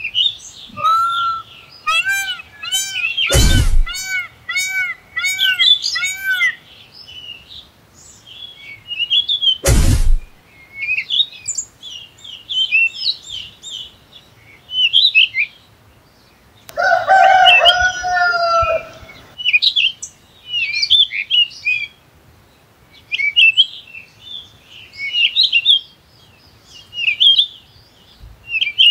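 Birds chirping and twittering. One louder bird repeats a short arched call about twice a second for the first several seconds, and gives a longer call a little past the middle. Two short, loud bursts of noise cut in, one early and one about ten seconds in.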